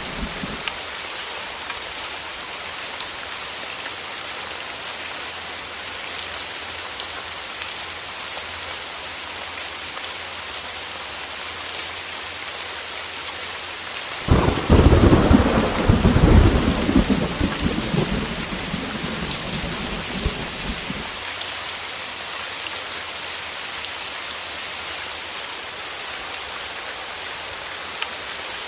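Heavy rain falling steadily in a dense patter. About halfway through a sudden thunderclap breaks in and rumbles on for about seven seconds before fading back under the rain.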